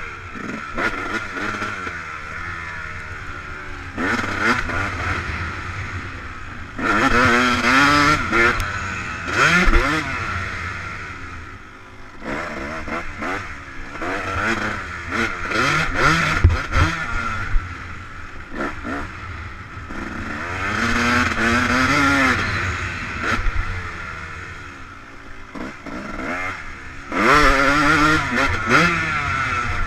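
Yamaha YZ250 two-stroke motocross bike engine revving hard and backing off again and again as it is ridden round the track, its pitch climbing and dropping. It is loudest in three stretches: about 7 to 10 seconds in, around 20 to 23 seconds, and near the end.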